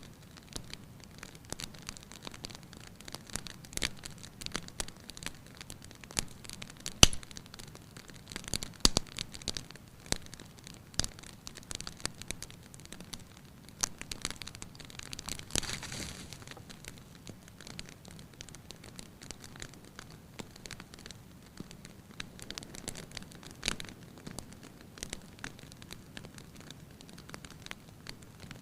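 Wood fire crackling in a fireplace: irregular sharp pops and snaps over a faint hiss, with one louder pop about seven seconds in.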